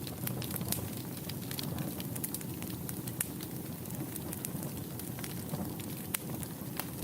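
Wood fire burning in a fireplace: a steady low rumble of the flames with frequent sharp, irregular crackles and pops from the burning wood.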